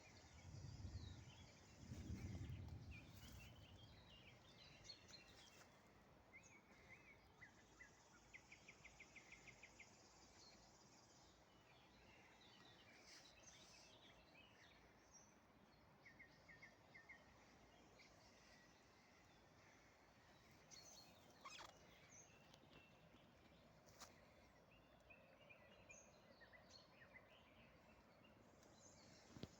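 Small birds chirping faintly, with scattered short calls and quick trills of repeated notes, one of them about eight seconds in. A low rumble near the start.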